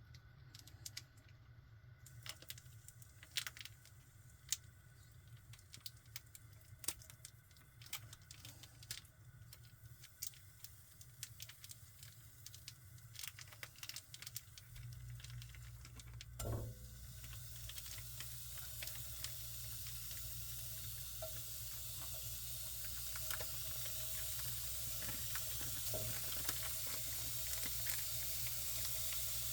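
Kitchen handling sounds: scattered clicks and knocks of utensils and cookware. About halfway through, a low hum starts and a pan begins to heat, with a hiss that grows steadily into a sizzle.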